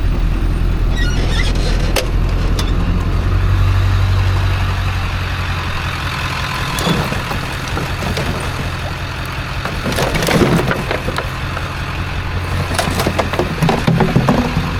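A vehicle engine idling steadily, with scattered knocks and clatters of objects being handled, the loudest of them about ten seconds in and again near the end.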